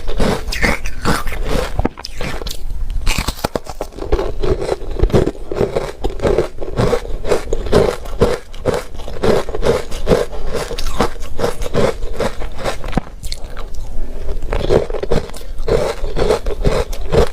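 Close-miked crunching of ice being bitten and chewed, with rapid crunches coming several times a second throughout.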